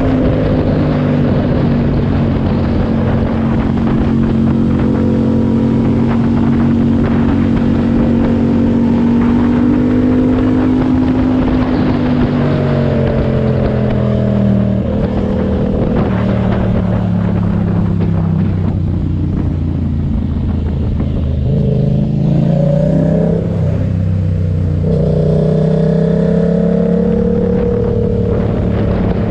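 Yamaha MT-07's parallel-twin engine through an SC Project exhaust with a dB killer, running at steady revs, then falling in pitch as it slows through the middle and picking up again with a rev rise near the end.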